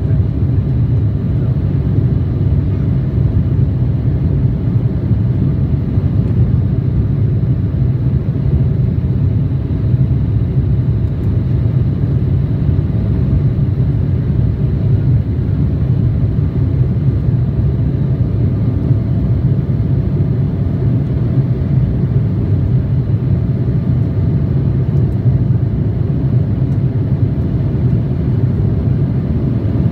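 Steady in-flight cabin drone of an Embraer E175 airliner: a deep, even rumble of turbofan engines and airflow over the fuselage, with a faint steady hum above it.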